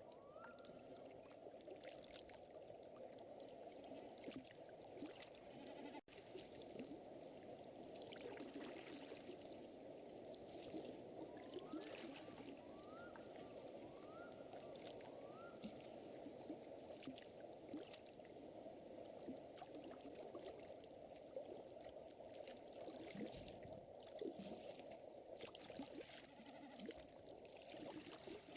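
Faint, steady lapping of lake water with a wood fire crackling in small pops, and a quick run of four short rising chirps from a bird or small animal about halfway through.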